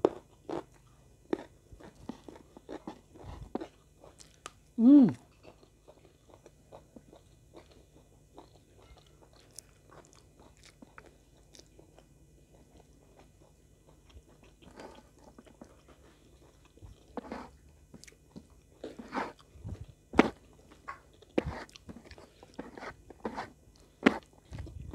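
Close-miked eating sounds: wet chewing and crisp, crunchy bites as rice, soy-braised chicken and raw petai beans are eaten by hand, with many short sharp mouth clicks. The bites come thicker in the second half. About five seconds in there is one brief, loud vocal sound falling in pitch.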